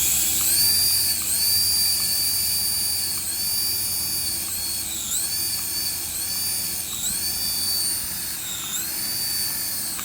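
Small electric motor of a remote-control toy whining at high pitch, its speed dipping and climbing again every second or so as the throttle is worked.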